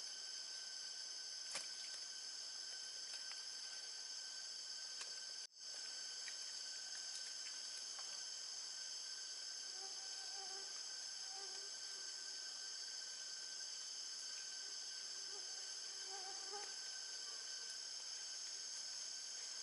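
Forest insect chorus: a steady, high-pitched layered trilling with several pitches. It drops out for an instant about five and a half seconds in, and a few faint short low calls come through later.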